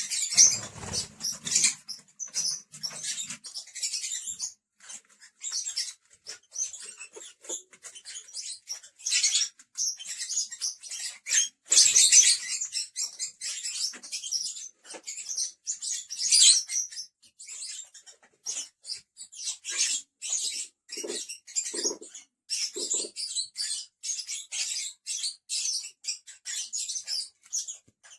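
Pet lovebirds (Agapornis) chattering: a dense, unbroken run of short, shrill chirps and squeaks.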